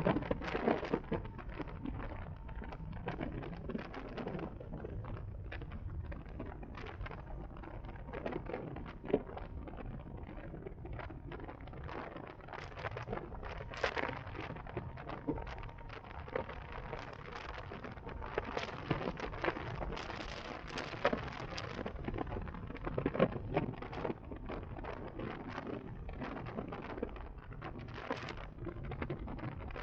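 Wind buffeting the microphone and road noise while riding a 2023 CSC Zongshen RX1e electric motorcycle: a low rumble with irregular crackles and pops throughout.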